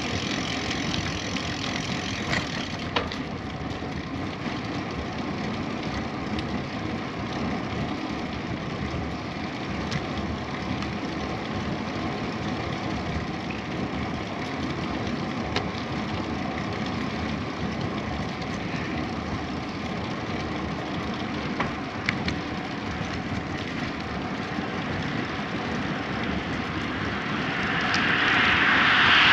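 Steady rumble and hiss of a bicycle ride, from tyres on the road surface and wind on the camera microphone, with a few sharp clicks. A louder hiss swells near the end.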